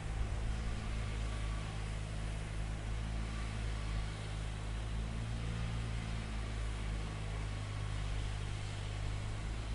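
Steady low machinery drone with an even hiss over it, holding constant throughout.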